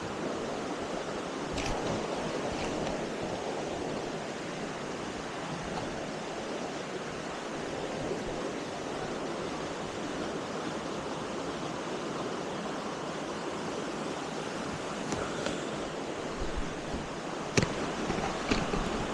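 Steady rush of a waterfall's water pouring into a pool, with a few short knocks near the end.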